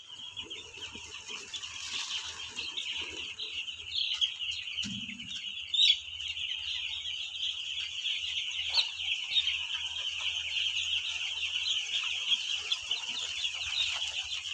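A flock of five-day-old broiler chicks peeping all together, a dense, continuous chorus of high chirps.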